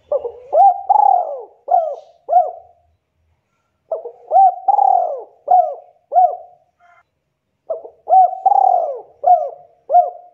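Spotted dove cooing: three phrases of about five or six coo notes each, a few seconds apart, with a longer drawn-out note in the middle of each phrase.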